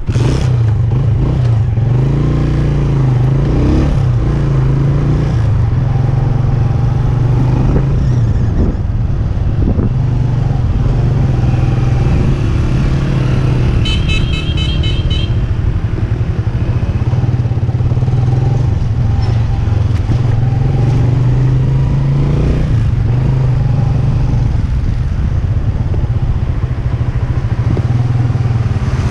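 Road vehicle engine running steadily on the move, with road and wind noise. A brief burst of quick, high repeated beeps comes about halfway through.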